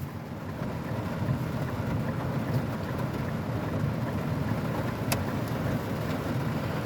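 Steady low rumble of a vehicle riding through a heavy rainstorm, heard from inside, with one sharp tick about five seconds in.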